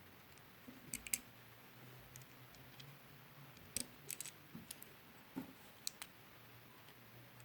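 Scattered small sharp clicks and taps, a few at a time, as the parts of a Braun Silk Epil epilator are handled during a gear replacement, over a faint steady low hum.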